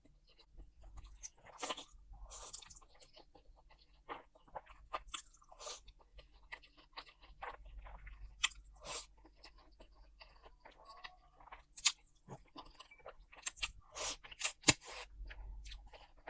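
Close-up eating sounds: a person chewing mouthfuls of spicy noodles and sausage, with wet mouth clicks and crunchy bites scattered irregularly and a few sharper clicks, the loudest near the end.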